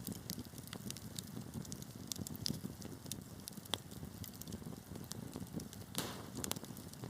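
Wood fire burning in a fireplace: a steady low rumble of flames with frequent sharp crackles and pops from the burning wood, one louder pop about six seconds in.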